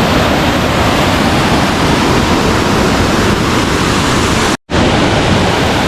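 Waterfall rushing: a loud, steady roar of falling water. It is broken by a split-second dropout about four and a half seconds in.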